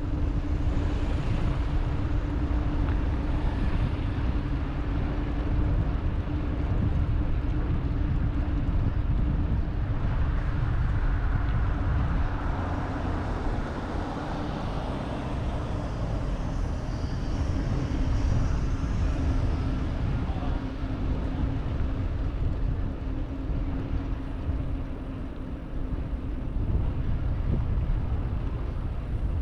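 Wind rumbling on the microphone of a moving bicycle, mixed with road and traffic noise, with a steady hum running underneath. A louder swell of traffic passes about ten to sixteen seconds in.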